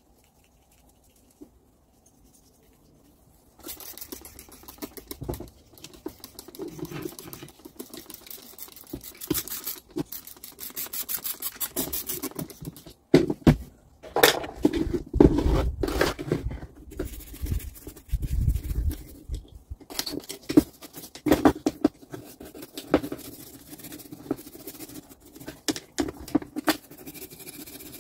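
Hand work on small metal grinder parts: irregular scraping and scratching with sharp clicks and knocks, after a few near-silent seconds at the start.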